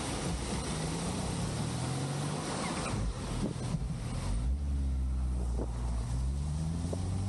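Honda CBR650R's inline-four engine accelerating, its pitch rising, dropping at a gear change and rising again, with wind noise on the microphone that is strongest in the first three seconds.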